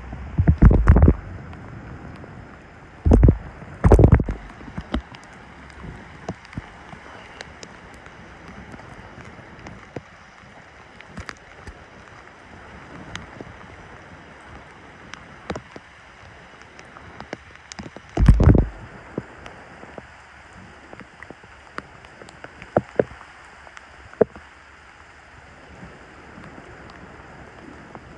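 Hurricane wind: a steady rushing background, with loud low gusts buffeting the microphone about a second in, twice around three to four seconds in, and again a little past halfway, plus scattered small clicks.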